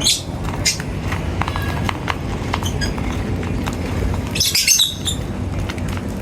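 Small birds chirping in short high calls, with a quick flurry of chirps about four and a half seconds in, over a steady low rumble.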